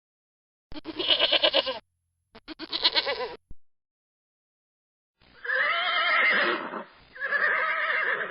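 Two short, quavering bleats about a second apart, then two longer wavering calls from a different animal in the second half.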